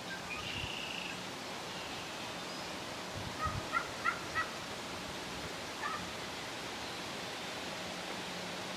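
Wild turkey gobbler gobbling: a short burst of quick notes about three and a half seconds in, over a steady hiss.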